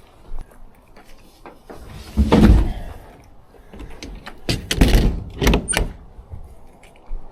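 A series of heavy clunks and thuds, loudest in clusters about two and a half seconds in and again around five seconds in.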